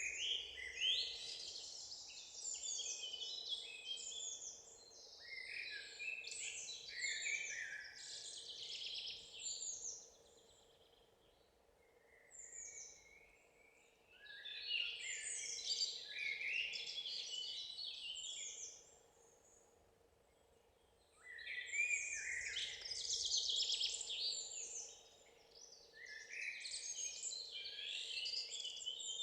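Songbirds singing in the woods: long runs of rapid, varied high-pitched notes, broken twice by pauses of a few seconds, over a faint steady hum.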